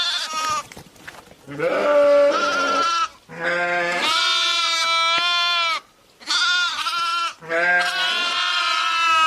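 Sheep bleating: a run of about five long, loud calls with short pauses between them, some held for two seconds or more.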